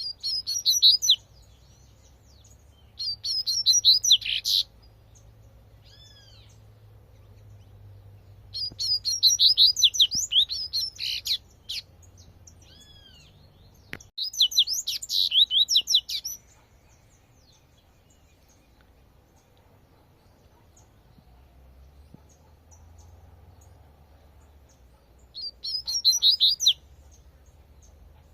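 Double-collared seedeater (coleirinho) singing its 'tui-tui' song: five short phrases of rapid, high notes separated by pauses of a few seconds, with a longer phrase in the middle.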